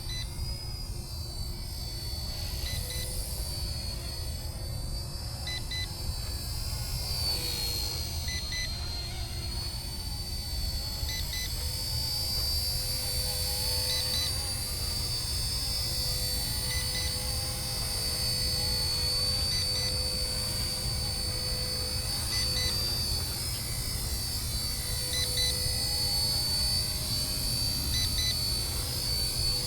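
Radio-controlled ERA UH-1 Huey model helicopter running, its motor giving a steady high-pitched whine that wavers slightly in pitch as the throttle shifts, over a constant low rumble of rotor wash.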